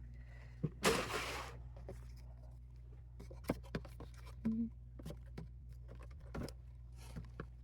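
Light handling noises of small packaged items being picked up and set down: soft taps, clicks and scrapes, with a short rustle about a second in, over a steady low hum.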